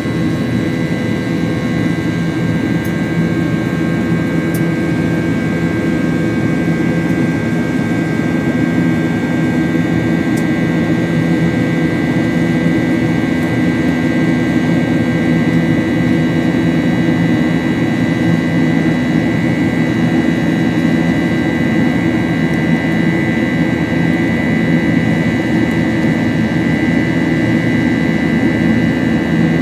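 Boeing 737-8's CFM LEAP-1B turbofan engines running at steady power, heard inside the passenger cabin as a constant drone with a high, steady whine.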